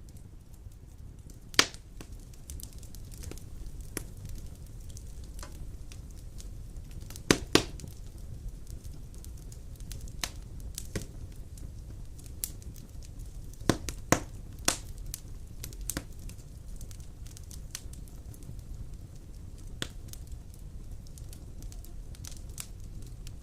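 Wood fire burning in a stone fireplace: a low steady rumble of flames with scattered sharp crackles and pops, several louder pops in clusters a few seconds apart.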